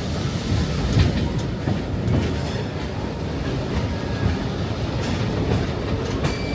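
Railroad passenger cars rolling along the track: a steady rumble of wheels on rail with scattered clicks from the rail joints, and brief faint wheel squeals twice.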